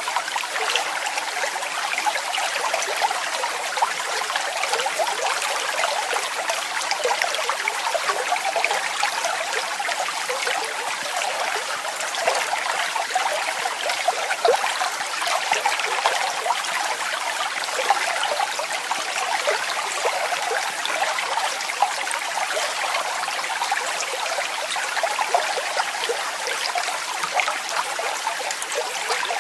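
Waterfall's falling water splashing steadily, a bright, even rush with many small splashes and little deep rumble.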